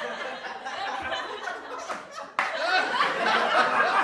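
People laughing and chuckling. A little past halfway it cuts abruptly to a louder burst of laughter.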